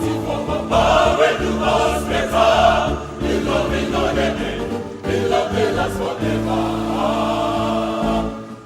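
Choir singing a gospel song in Nigerian praise style, voices in parts over a steady, sustained bass accompaniment.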